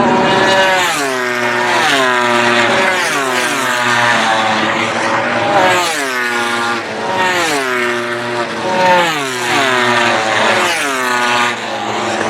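Racing motorcycles going past one after another at full race speed, each high engine note falling steeply in pitch, about six times in a row.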